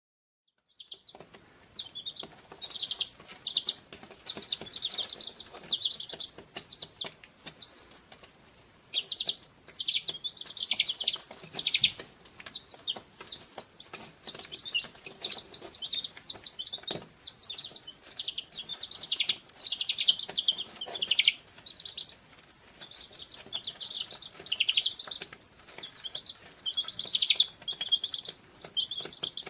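Recording of small birds chirping, a dense, busy run of quick high chirps that starts about a second in and carries on without a break.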